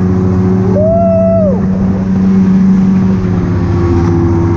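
Jet ski engine running steadily under way, a constant hum over the hiss of water and wind.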